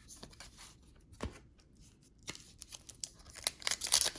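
Trading cards and their pack wrapper being handled: a few light taps and a knock, then a crinkly rustling that builds up and gets louder near the end.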